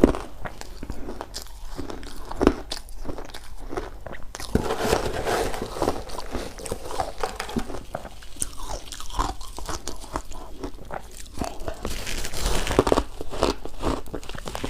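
Someone biting and chewing shaved ice close to the microphone: separate sharp crunches at first, then denser, steady crunching and chewing from about four seconds in.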